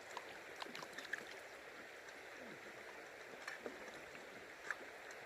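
Flowing river water, a faint steady rush, with a few scattered small clicks and ticks; the sharpest comes near the end.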